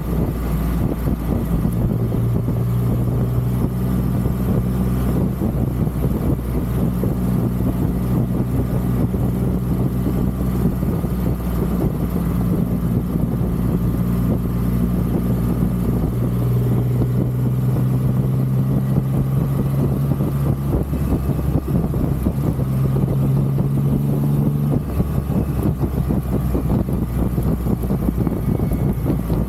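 Triumph Rocket 3's three-cylinder engine running while riding at steady speed, its note holding level and shifting in pitch a few times as the throttle changes, over constant rumble from the ride.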